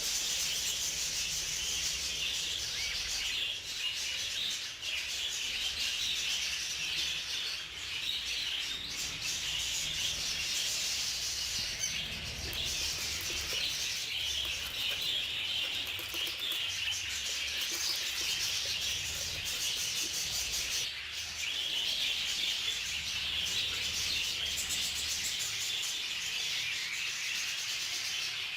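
A flock of budgerigars chattering continuously: many overlapping high chirps and warbles with no pause.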